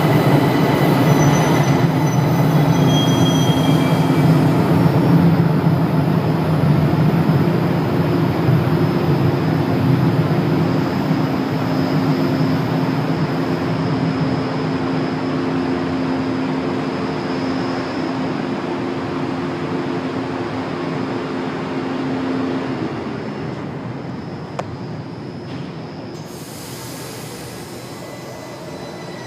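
São Paulo Metro Line 2 train running through the station with a steady low hum and rumble, and brief high wheel squeals a second or so in. The sound fades gradually as the train moves off.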